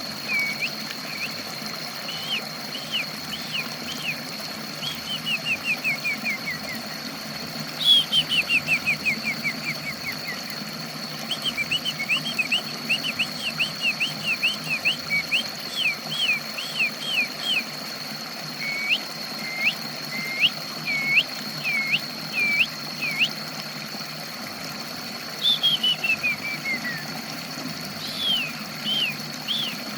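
A songbird singing in repeated phrases of short, quick upward-flicked whistled notes, broken by a few fast runs of notes that fall steadily in pitch. A steady high-pitched whine and a low hum continue underneath.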